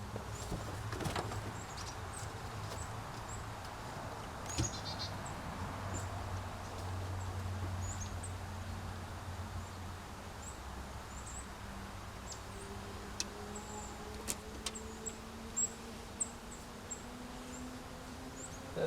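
Quiet outdoor background: short, faint high chirps repeat throughout, a distant low drone slowly rises in pitch over the second half, and a few sharp clicks are heard.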